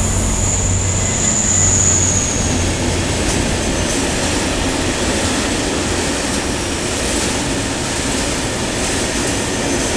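Train rolling past on the rails: steady rumble of wheels, with faint clicks over rail joints and a high whine that fades out about two and a half seconds in.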